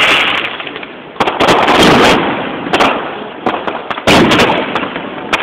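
Aerial firework shells bursting: several sharp, loud bangs, the strongest about a second in and about four seconds in, each trailing off in a rumbling echo.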